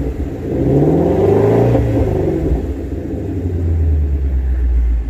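Car engine revved while parked, climbing and falling back in pitch about a second in, then settling to a loud steady idle; the exhaust has been switched to its louder setting.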